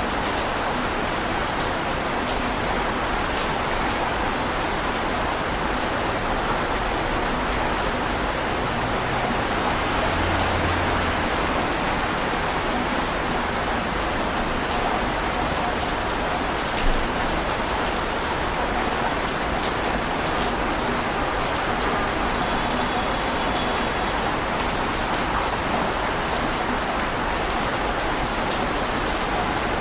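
Steady heavy rain, a dense even hiss of falling water with scattered individual drops ticking, and one sharper drop hit about 17 seconds in.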